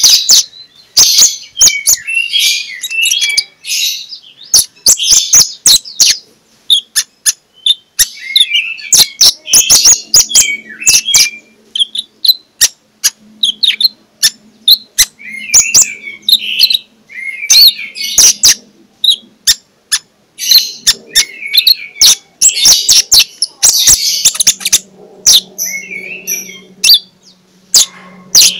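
Brown-throated sunbird (kolibri ninja) singing a loud, open 'ngeplong' song: rapid bursts of sharp high chirps and clicks in phrases a second or two long, separated by short pauses. This is the kind of song used as a masteran, to provoke a sluggish konin into singing.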